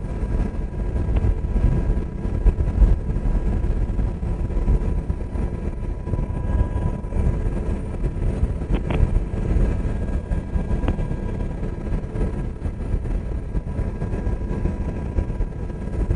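UH-60 Black Hawk helicopter in flight: a steady, loud low rumble of rotor and turbine noise with a faint steady whine.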